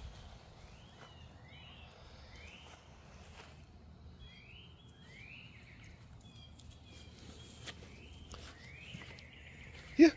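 A bird calling over and over, short chirps that sweep upward in pitch, roughly one a second, over a faint low hum. Near the end a single brief, loud vocal sound cuts in, the loudest moment.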